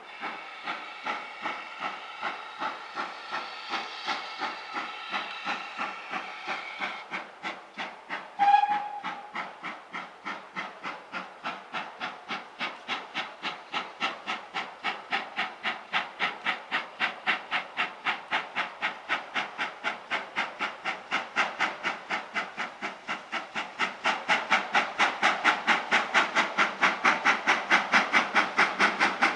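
Heritage steam locomotive working, with regular chuffs from its exhaust that gradually quicken as it gets away, and a short blast on its whistle about eight seconds in. The chuffs grow louder near the end.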